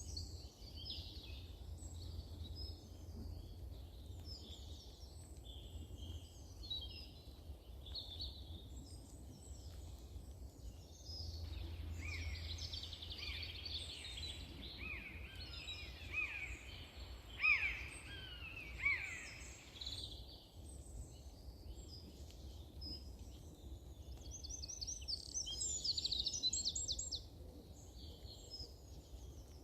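Several songbirds singing and calling at once, a dense mix of high chirps and trills. About a third of the way in, a nearer bird adds a run of lower, downward-sliding notes, the loudest about halfway through, and a fast high trill comes later. A steady low rumble runs underneath.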